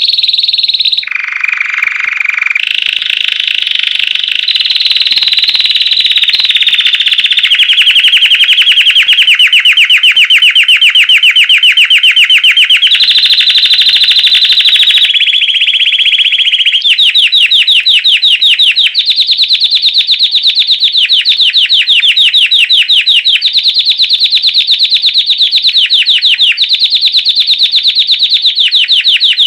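A white Belgian domestic canary singing loudly and without a break in the classic 'campainha' (bell) style. It starts with a brief lower phrase, then rolls into long, very fast trills that shift to a new pitch every couple of seconds.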